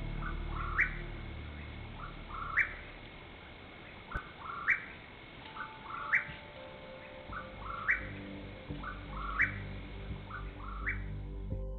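A bird calling over and over, seven times, about every one and a half seconds: each call is a short lower note followed by a quick upward-sliding whistle. Soft background music runs beneath and swells near the end.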